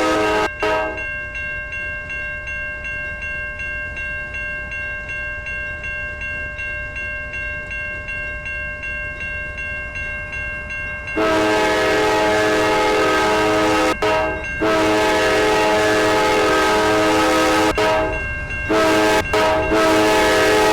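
Norfolk Southern locomotive air horn sounding a chord: a blast ends a moment in, then about halfway through it sounds again as two long blasts, a short one and a long one, the pattern of a grade-crossing signal. Between the blasts the train runs on with a rhythmic clatter.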